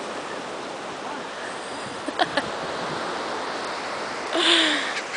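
Steady wash of ocean surf and wind, with a few short sharp clicks about two seconds in and a louder, harsh cry with a falling pitch near the end.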